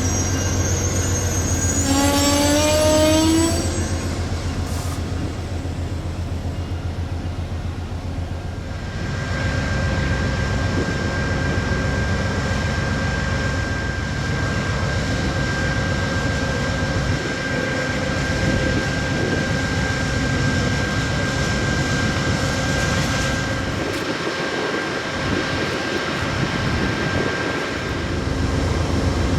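Amtrak P42DC diesel locomotive with a train, running with a steady low engine hum. About two seconds in there is a brief slightly rising squeal, and from about nine seconds on a rumbling noise with a steady high-pitched tone.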